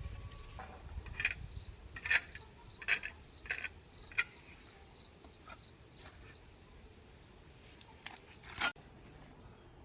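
A handful of short, sharp clicks and knocks at irregular intervals, most in the first half and one more near the end.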